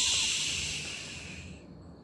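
A long, even hiss that fades away about a second and a half in: the story's other noise that comes in the pauses between the woodpecker's taps.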